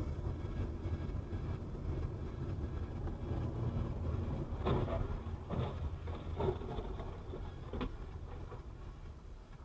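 Steady low rumble of a moving car's engine and road noise, heard from inside the car, with a few short knocks in the middle.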